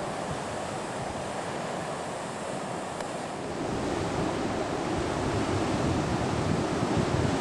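Ocean surf breaking on a beach, with wind buffeting the microphone. The surf grows louder about halfway through.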